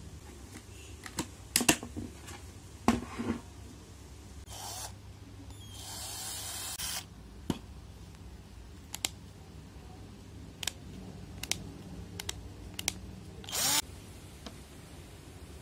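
Cordless drill being handled and briefly run: a series of sharp clicks and knocks, with a few short bursts of the drill, the longest about a second long about six seconds in.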